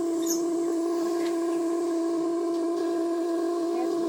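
Small horizontal steam boiler under pressure, a steady pitched hum with a hiss over it as steam escapes, and a few faint ticks.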